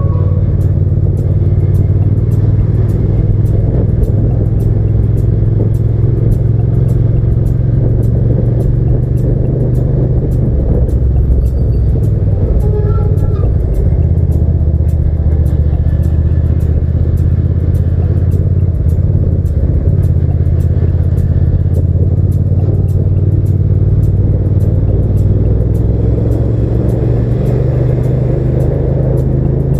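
Hyosung GT650's V-twin engine running steadily while riding, its note shifting a few times along the way.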